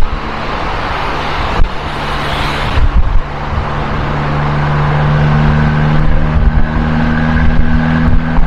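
Abarth 595C's turbocharged 1.4-litre four-cylinder engine running through an Akrapovič exhaust on the move: a steady drone that climbs gradually in level and pitch as the car pulls, with a brief hiss about two seconds in.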